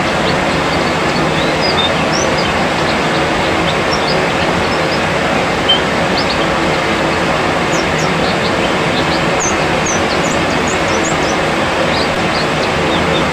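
Many short, high chirps of white-eyes (pleci), scattered throughout, over a loud, steady rushing noise. It is a therapy track played to young caged white-eyes to get them singing.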